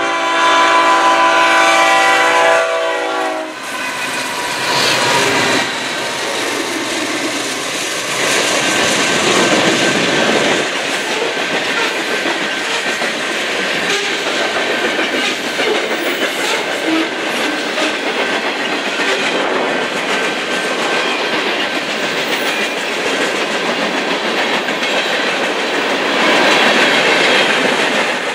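The lead BNSF ES44C4 diesel locomotive's air horn sounds one chord that ends about three seconds in. The locomotives' engines then rumble past. After that the freight cars roll by, their wheels clicking steadily over the rail joints.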